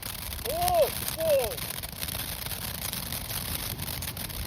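A person's voice giving two short calls, each rising then falling in pitch, about half a second apart, over steady background noise.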